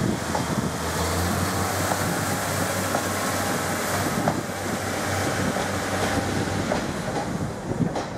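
Northern Class 142 Pacer diesel multiple unit departing and passing close by, its underfloor diesel engines running with a steady low hum under the rumble of the wheels, with a few clicks of wheels over the rails. The sound eases near the end as the train draws away.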